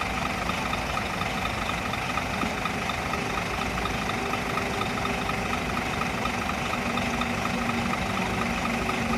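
Large diesel bus engine idling steadily, with a faint regular ticking over the hum. The bus is stopped to let its engine cool after a coolant-temperature-too-high warning.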